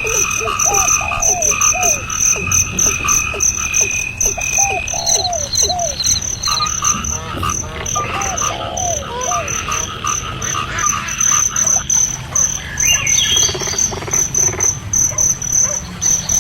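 Nature chorus of insects and frogs: a high, rapidly pulsing insect trill runs throughout, while groups of short rising-and-falling frog calls come and go, over a steadier higher chirring.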